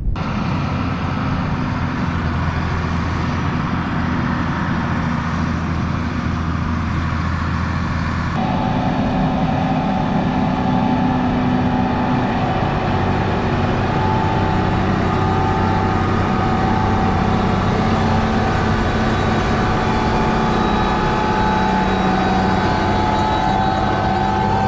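Farm tractor engine running steadily. About eight seconds in, a steady high whine joins it and the sound grows slightly louder.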